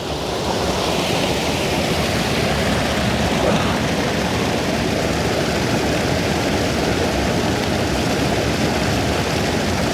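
Waterfall roaring: a loud, steady rush of falling water close by, swelling during the first second and then holding even.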